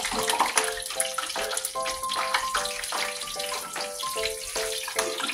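Egg-battered fish fillets sizzling in hot oil, a steady crackling hiss. A tune of short, clear notes plays over it throughout.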